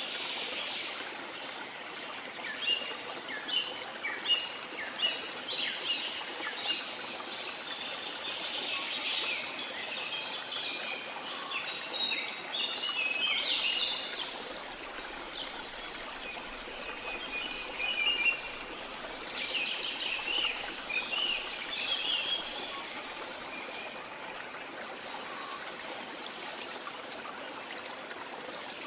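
Several birds singing in quick, short chirps over a steady hiss of falling water from a waterfall. The birdsong thins out in the last few seconds while the water runs on.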